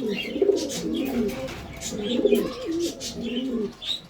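Several pigeons cooing over one another in a loft, low rolling coos one after another, with bird chirps above them.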